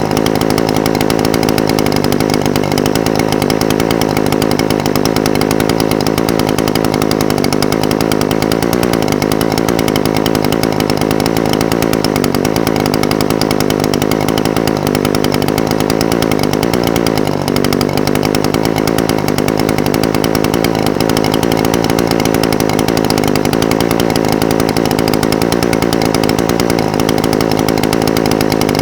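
Echo SRM-420TES brush cutter's two-stroke engine idling steadily, its speed wavering slightly now and then.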